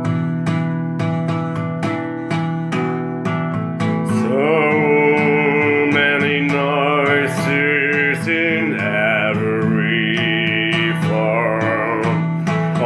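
Music: an acoustic guitar strummed in steady chords, with a man's voice coming in singing about four seconds in.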